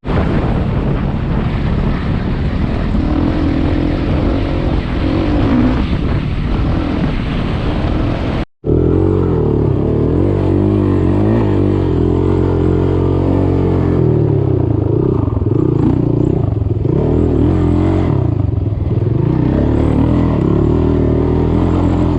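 Off-road vehicle engine running under way, its pitch rising and falling as the throttle changes. The sound breaks off for a moment about eight and a half seconds in, then carries on.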